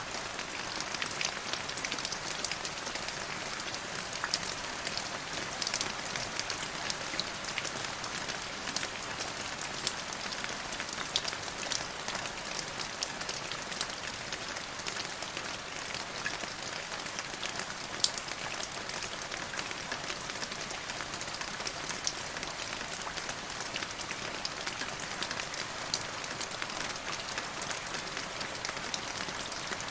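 Steady rain falling on a surface, a dense patter of drops with a single sharper drop tick about 18 seconds in.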